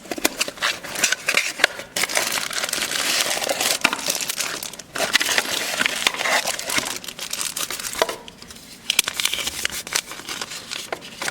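Packaging being unwrapped and handled, crinkling and crackling in irregular bursts, with a short lull about eight seconds in.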